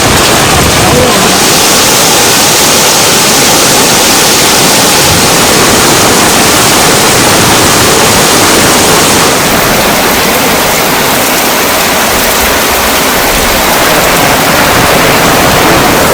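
Heavy monsoon rain falling: a loud, steady hiss whose tone shifts slightly about a second in and again about nine seconds in.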